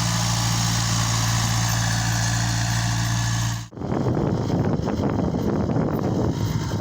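Same Saturno 80 tractor's diesel engine running steadily. After an abrupt cut a little over halfway through, a rougher, noisier rumble with crackling takes over.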